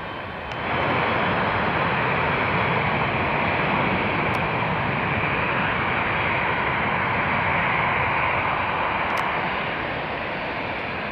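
Jet airliner engines: a steady, even noise that jumps up in level about half a second in and eases off near the end.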